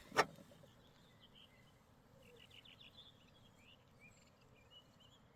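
A single sharp click just after the start, then faint, scattered bird chirps.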